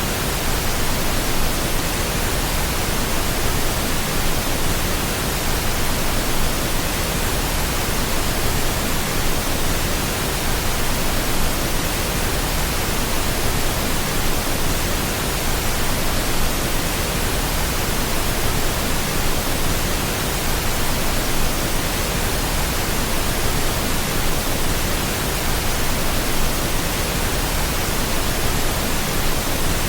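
Steady pink noise, an even, unchanging hiss over all pitches, played as a sleep aid.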